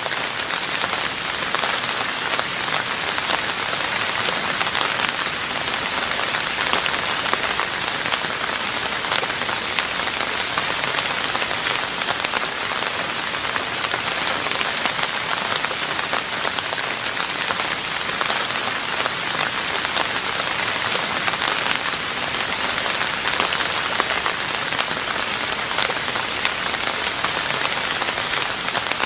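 Steady rain falling on a roof: a dense, even patter of drops that neither builds nor fades.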